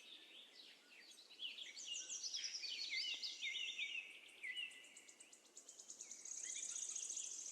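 Birds chirping outdoors, several quick notes sliding downward and overlapping, followed by a rapid high trill in the last second and a half.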